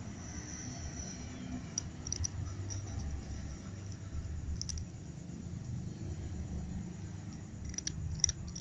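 A cat eating, with a few scattered sharp clicks over a steady low background rumble.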